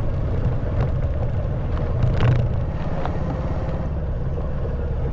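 Honda Wave 110cc single-cylinder four-stroke engine running steadily under way on a rough stone track. Scattered short knocks come through, with a louder clatter about two seconds in.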